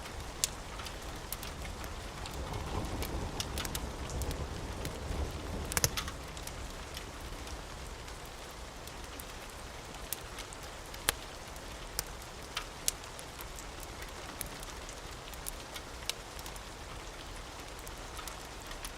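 Steady rain with a wood fire crackling in scattered sharp pops. A low rumble of distant thunder swells and fades in the first few seconds.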